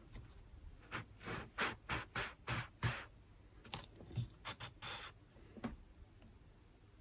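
Quick scraping strokes against a work surface, about six in two seconds, then a few more after a short pause.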